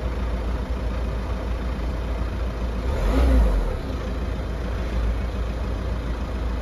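Car engine running at idle with a steady low rumble, swelling briefly about three seconds in.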